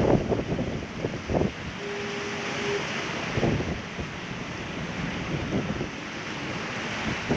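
Ocean surf washing against rocks, with wind buffeting the microphone in irregular gusts. A short, faint steady tone sounds for about a second, about two seconds in.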